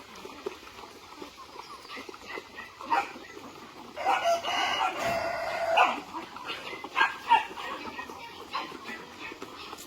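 A rooster crowing once, a drawn-out call of about two seconds starting about four seconds in, with a few shorter chicken calls before and after it.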